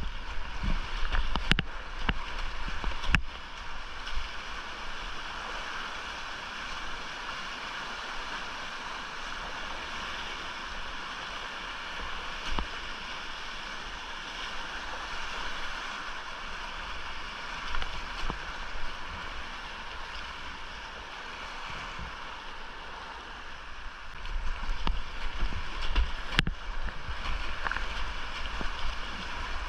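Whitewater creek rushing in a steady hiss of running water, with low thumps and a few sharp knocks in the first few seconds and again near the end.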